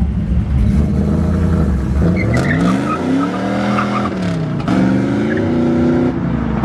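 A car engine revving as the car accelerates away: a steady run at first, then about two seconds in the pitch climbs, drops back and climbs again, as in a gear change.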